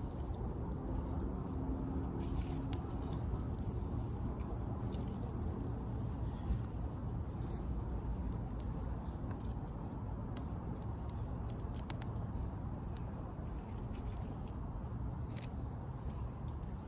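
Campfire crackling and popping with scattered sharp snaps over a steady low rumble.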